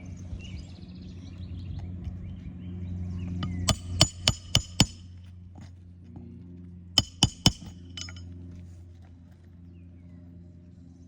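Hammer driving a roofing nail through an asphalt shingle: a quick run of five strikes, then after a pause three more, over a steady low hum.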